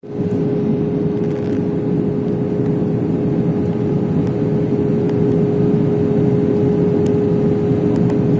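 Steady engine drone and air rush inside a passenger airliner's cabin in flight on approach to landing, with a constant hum running through the low rumble.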